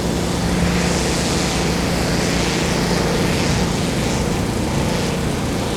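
Diesel engines of two EMD GP40-series locomotives running, a steady drone with a low rumble and an even hum.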